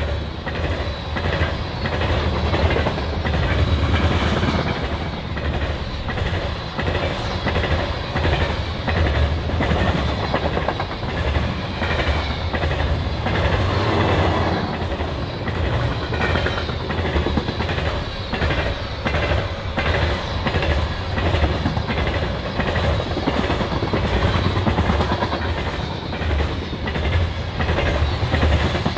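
A long grain train's covered hopper cars rolling past at speed: a steady rumble of steel wheels on rail with a regular clickety-clack as the wheel sets pass over rail joints.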